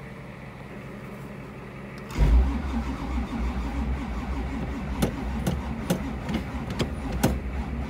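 Cold carbureted 383 stroker small-block V8 being cranked over. It starts about two seconds in and stumbles with several sharp pops as it tries to catch, struggling to start in freezing cold with its carburetor chokes removed.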